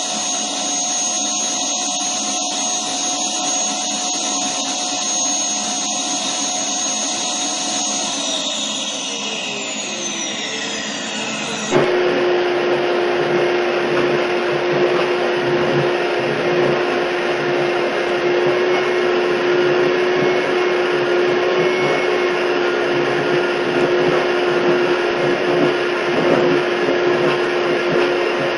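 Vacuum cleaner motors running. The first one's pitch slides down as it winds down, about ten seconds in. Then a louder vacuum cleaner cuts in abruptly with a steady hum and hiss.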